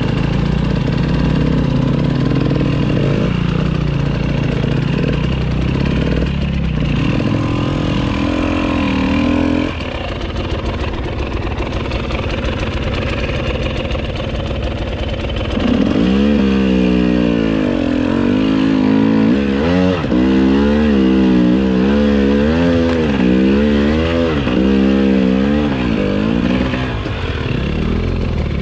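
Enduro motorcycle engine running as the bike is ridden, the engine note fairly steady at first, then repeatedly rising and falling as the throttle is opened and closed during the second half.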